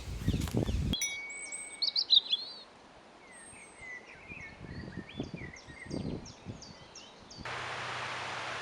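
Wild songbirds singing and calling: a run of short whistled chirps and sliding notes, loudest about two seconds in. Near the end a steady hiss takes over.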